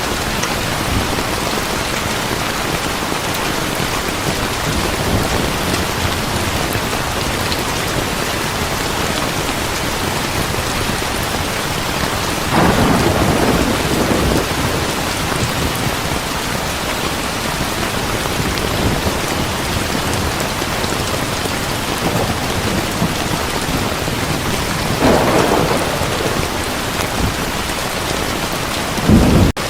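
Heavy rain pouring steadily, with thunder rumbling up twice, about halfway through and again near the end, and a sharper clap just before it ends.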